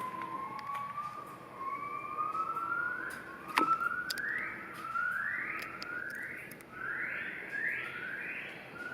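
Red-legged seriema calling: a series of rising notes, long slow glides at first, then shorter and quicker at about two a second. A sharp click sounds about a third of the way in.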